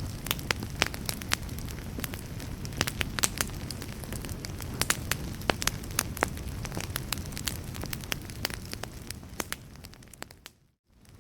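Wood fire crackling, with frequent sharp pops over a steady low rumble. It fades out briefly near the end and comes back.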